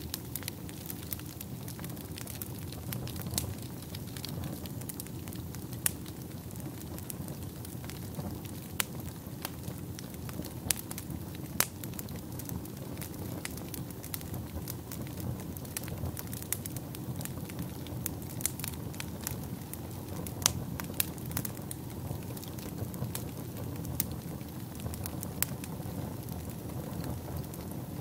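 Wood fire burning in a fireplace: a steady low rush of flames with sharp, irregular crackles and pops from the burning logs, several a second.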